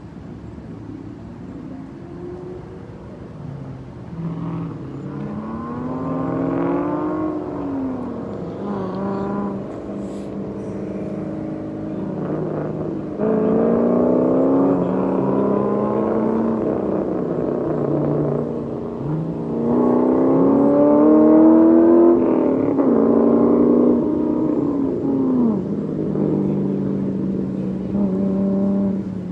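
Road vehicles accelerating past, their engine pitch rising and falling through gear changes. Several passes come in turn, the loudest about midway and about two-thirds of the way in.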